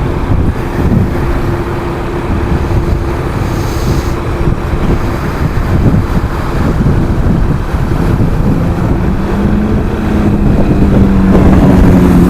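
KTM 690 Duke's single-cylinder engine running at road speed, with heavy wind buffeting on the helmet-camera microphone. Past the middle a second, lower engine tone comes in and grows louder toward the end.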